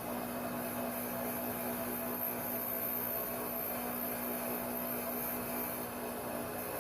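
A steady, even hum with a faint hiss behind it.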